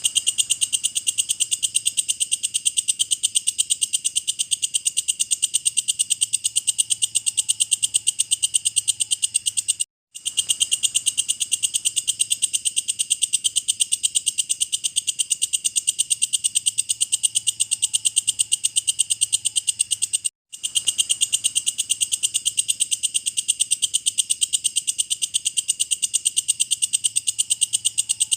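Walang kecek, a katydid, stridulating: a loud, high, rapid and very even chirping pulse train. It breaks off for a moment twice, about ten and twenty seconds in.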